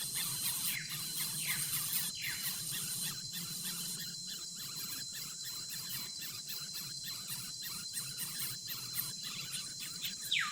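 Crickets trilling steadily and high-pitched, joined in the first couple of seconds by a few short falling bird chirps.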